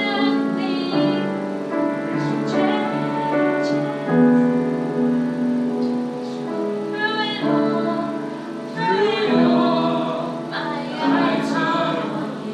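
Worship song: a woman's voice singing held, slow phrases over keyboard accompaniment.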